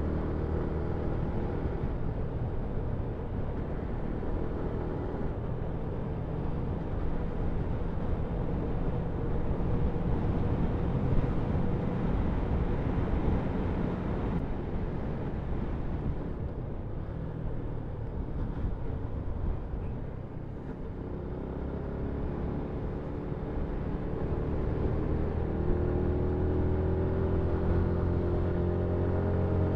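Yamaha MT-125's single-cylinder 125cc engine running under way, with wind rushing past. It eases off a little past the middle, then pulls again with its pitch slowly rising towards the end.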